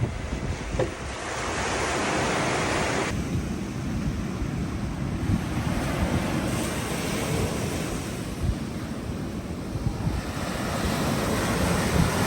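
Waves washing on the shore, with wind buffeting the microphone in low gusts.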